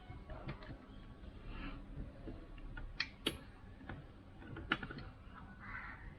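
Faint handling sounds of fitting bolts and washers on a motorcycle: a few sharp clicks and taps of metal parts and tools, the loudest about three seconds in and again near five seconds, with some soft rustling between.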